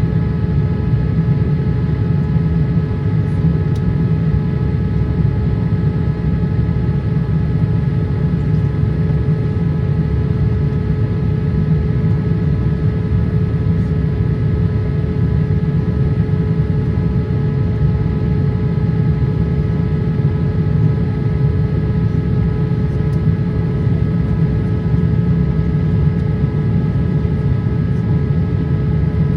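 Steady cabin noise inside a Boeing 787-8 airliner in descent: a low rumble of engines and airflow with several steady whining tones on top.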